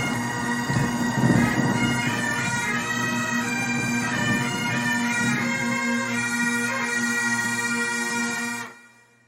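Bagpipe tune played over a steady drone, with a patter of rain in the first second or so. The music cuts off near the end.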